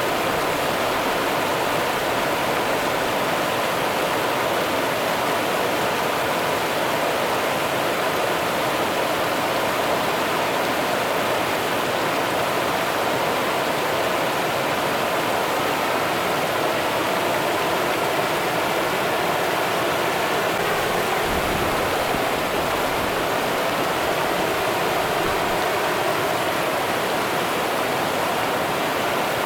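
Rio Grande river water running, a steady, even rush with no breaks.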